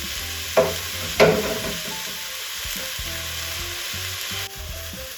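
Chopped onion, celery, carrots and vegan chick'n strips sizzling as they fry in a hot pot, with a utensil stirring and scraping twice about half a second and a second in. The sizzle drops lower about four and a half seconds in.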